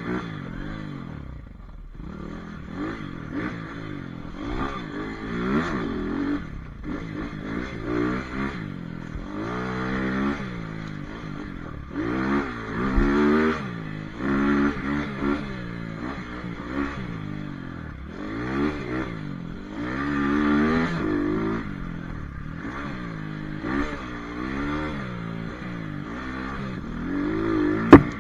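Pit bike engine revving up and falling back again and again as it is ridden, with a sharp knock near the end.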